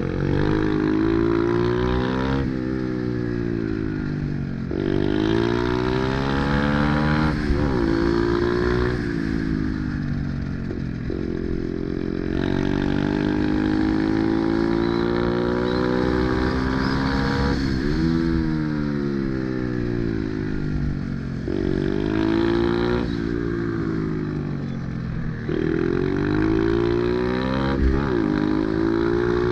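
Single-cylinder pit bike engine ridden hard, revving up and dropping back over and over. The pitch climbs and falls every few seconds as the throttle is opened and closed.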